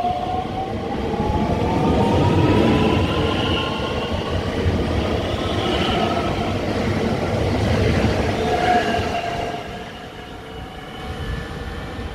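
Train pulling away from a station platform, with a whine rising steadily in pitch as it picks up speed over a rumble of running gear. The sound falls away about ten seconds in.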